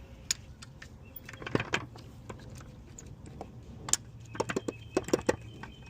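Sharp metallic clicks and clinks of hand tools and bolts at the intake manifold, in two short clusters, about a second and a half in and again near the end.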